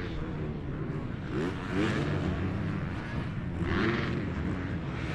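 Motocross motorcycle engines revving and running on the track, with pitch rising on the throttle about a second and a half in and again near four seconds.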